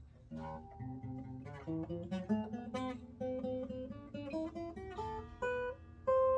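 Acoustic guitar played one picked note at a time, the notes climbing in pitch and ending on a note left to ring. The guitar is being test-played to check its setup, and the repairer judges that its truss rod needs adjusting.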